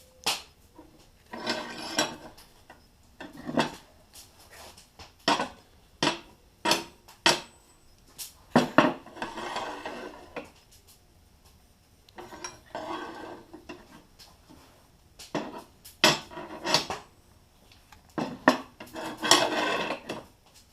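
Steel workpieces being handled and set square for welding, clanking against metal in a string of sharp knocks with short stretches of scraping and rubbing between them.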